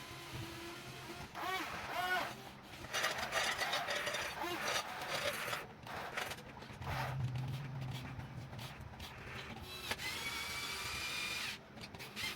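Small electric motors of a Huina 1550 RC excavator whining in short runs, with scraping and clattering between them; a steady high whine holds for about a second and a half near the end. Short rising-and-falling calls from voices or animals sound faintly now and then.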